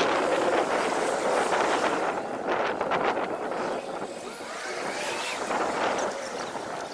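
Wind rushing over the microphone while riding a bicycle, with road noise underneath.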